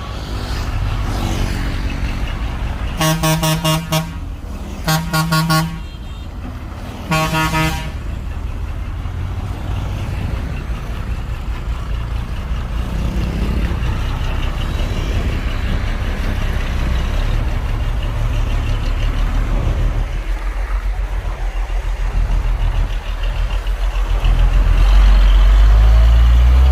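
Heavy diesel engine of a truck or earth-mover running with a steady low rumble, with three short truck-horn blasts about three, five and seven seconds in. The engine gets louder near the end.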